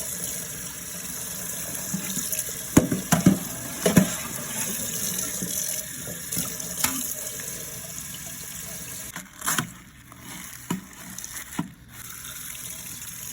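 Tap water running steadily as a dishwasher filter screen is rinsed under it, with a few sharp knocks in the first half as the filter bumps against the sink.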